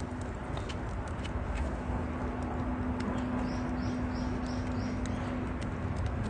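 Campfire of burning wood crackling, with scattered sharp pops over a steady hiss. A bird calls a run of five quick high notes in the middle, over a steady low hum.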